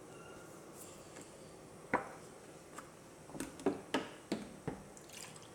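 Light taps or clicks: one about two seconds in, then a quick run of five or six over the next second and a half, over faint room tone.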